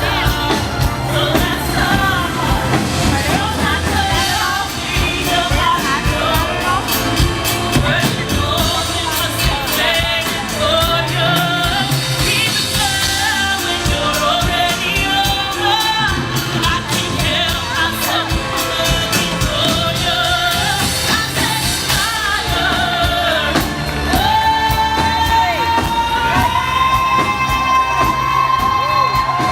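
A woman singing a pop ballad live over a band accompaniment with a steady beat. Near the end she holds one long high note.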